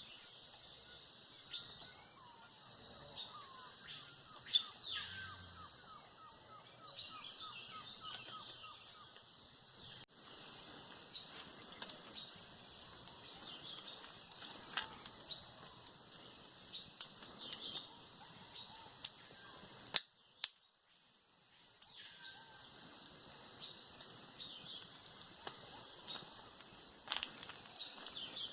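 Birds calling at dawn over a steady high drone of insects, with a run of loud calls in the first half and a softer trill beneath them. A few sharp clicks cut in around the middle.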